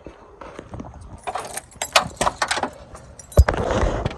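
Metal gear jangling and clinking in a quick run of small clicks, then a heavy thump about three and a half seconds in, followed by rustling.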